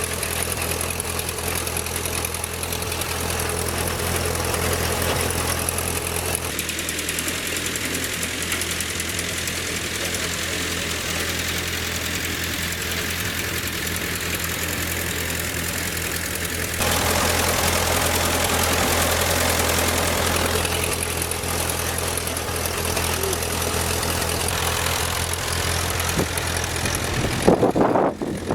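John Deere tractor's engine running steadily while it pulls a three-point back blade to grade a gravel driveway. The sound changes abruptly twice, and a brief louder burst near the end is followed by a sudden drop.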